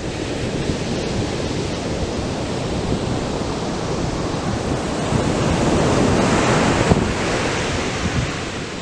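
Atlantic surf breaking and washing up the beach in a continuous rush, swelling to a peak about two-thirds of the way through and then easing off. Wind buffets the microphone with a low rumble underneath.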